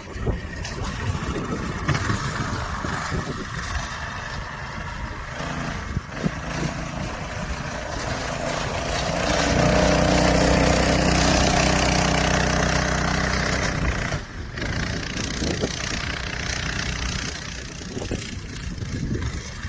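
Engine of a homemade two-seat go-kart running, growing louder and holding a steady pitch about halfway through, then dropping off abruptly and running on more quietly.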